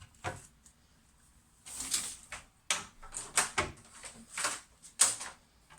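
Irregular knocks, clicks and scrapes of hands pushing installation parts into a tight space behind the furniture, in quick clusters after a short quiet spell.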